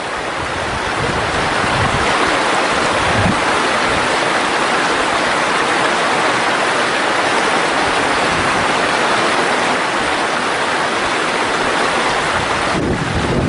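Valley stream flowing: a steady rush of running water.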